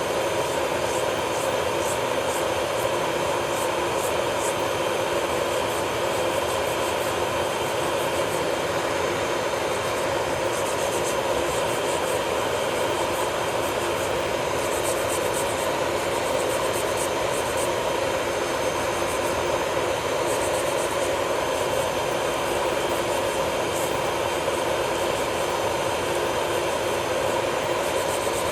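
Electric nail drill running steadily at constant speed, with short scratchy hisses every few seconds as the bit works the nail.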